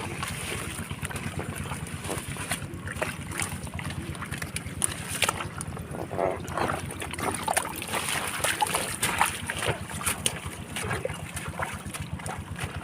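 Water splashing and sloshing in irregular bursts, with wind rumbling on the microphone.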